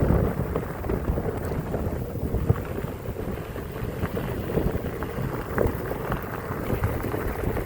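Wind buffeting the microphone, a steady low rushing rumble that flutters unevenly.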